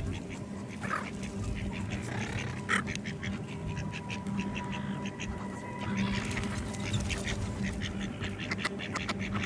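Ducks quacking, with a quick run of calls in the last few seconds.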